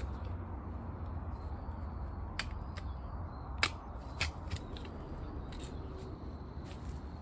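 Wood campfire crackling, with irregular sharp pops, the loudest about three and a half and four seconds in, over a steady low rumble.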